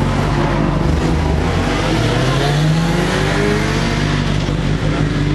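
Racing car engine revving, its pitch rising for about a second and a half near the middle, over a steady engine drone.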